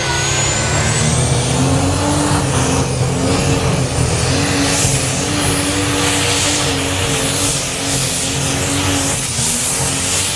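Competition pulling tractor's engine running loud and steady, with a thin high-pitched whine that rises over about the first two seconds and then holds.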